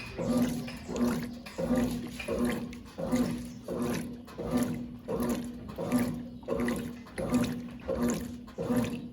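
Brastemp Clean 5 kg top-loading washing machine agitating with water in the tub: the agitator swings back and forth in a steady rhythm, about one stroke every 0.7 seconds, each stroke a motor hum with water sloshing.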